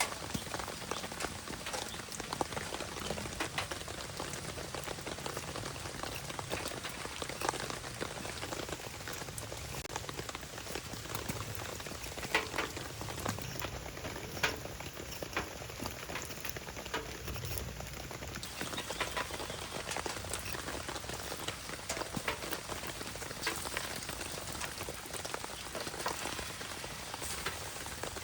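Steady rain falling, with scattered sharp pops and crackles through it.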